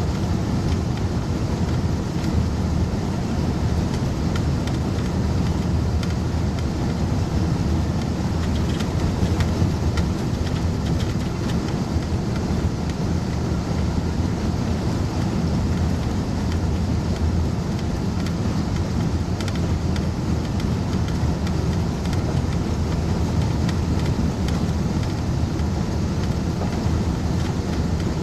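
Tow truck driving steadily, its engine and tyre noise an even low rumble heard from inside the closed cab.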